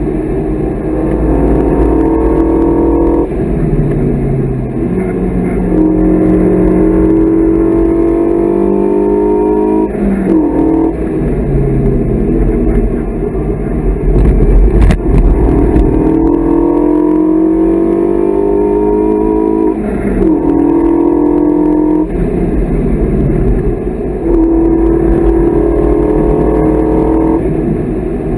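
Renault Mégane 3 RS Cup's turbocharged four-cylinder engine under hard acceleration, heard from inside the cabin: its pitch climbs steadily through each gear, then drops at the gear changes, about five times. One sharp click about halfway through.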